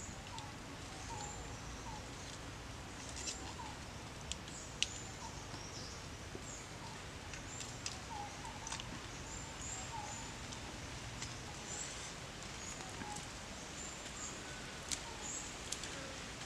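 Small birds chirping throughout, short high notes repeating every second or so, with a few sharp clicks here and there.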